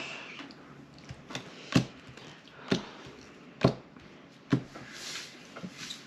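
Playing cards being laid down and handled on a table: four sharp taps about a second apart, with fainter rustling and ticks between.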